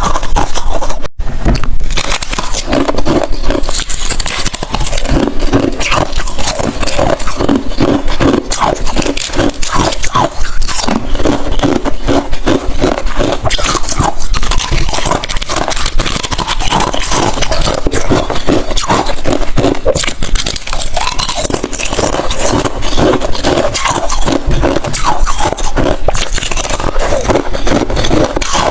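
Close-miked chewing of hard freezer ice and frost: a continuous run of rapid, loud crunches and cracks as the ice is bitten and ground between the teeth.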